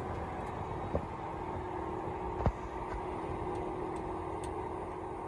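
A large farm tractor's engine running steadily with an even hum. Two sharp knocks cut through it, about a second in and again about two and a half seconds in.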